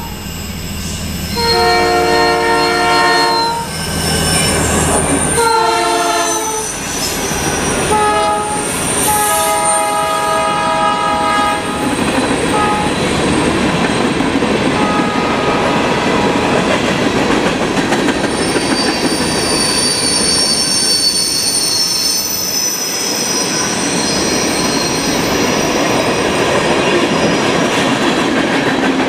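Locomotive air horn of a Norfolk Southern local freight led by GP38-2 and GP60 diesels, blowing the grade-crossing signal: two long blasts, a short and a long. Then the tank cars roll over the crossing with steady wheel-on-rail clatter and high wheel squeal.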